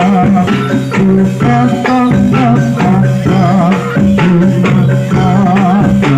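Live reog and jaran dor ensemble music: frequent drum and percussion strikes and metallophone-like notes over steady low held tones, with a wavering, ornamented melody line above.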